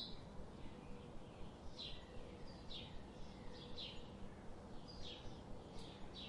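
Faint outdoor ambience with small birds giving short, high chirps about once a second, over a low steady background hiss.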